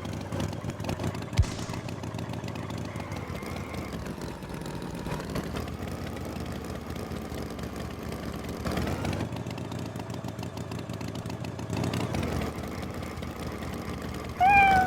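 Cartoon tractor engine running steadily, swelling slightly a couple of times, with a single knock early on and a short pitched call near the end.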